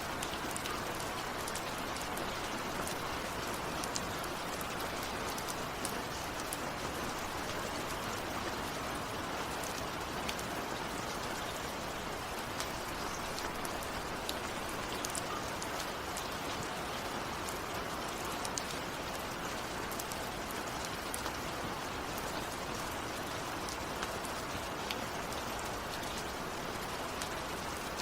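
Steady rainfall, a constant hiss with the sharp ticks of single drops heard over it.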